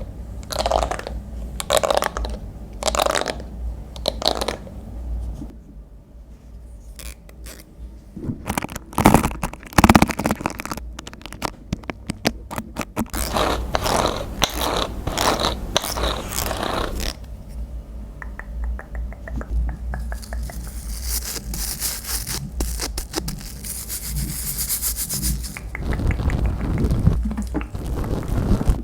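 Close-up hair-care handling sounds: a run of short scraping strokes and clicks, then a steady high hiss lasting several seconds about two-thirds of the way through.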